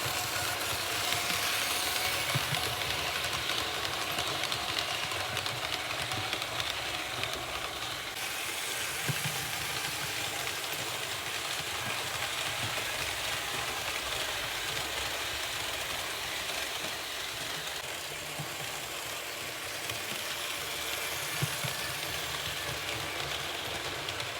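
Märklin H0 model train running on the layout: a steady electric-motor whir with a fine, rapid rattle and clicking of the wheels on the track.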